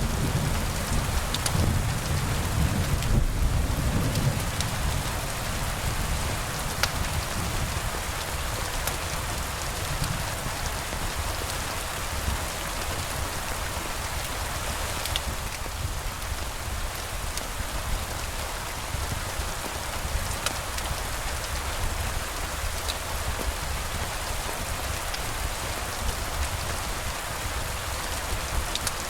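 Steady rain falling, with a low rumble of thunder that fades over the first few seconds. A few sharp ticks stand out now and then.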